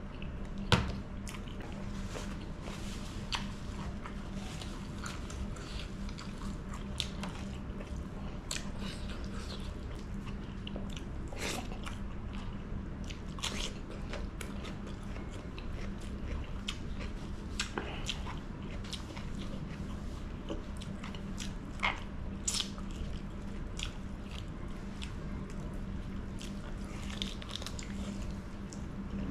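Close-miked mukbang eating: biting and chewing chicken off the drumstick bone and crunching into a fresh cucumber slice, with many short wet crunches and clicks. A sharp click about a second in is the loudest sound, and a steady low hum runs underneath.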